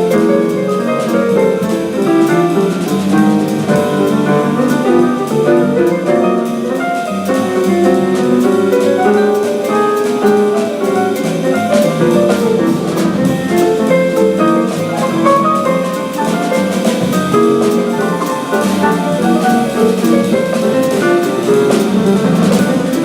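Live jazz combo playing: busy piano lines over drum kit with ride-cymbal strokes.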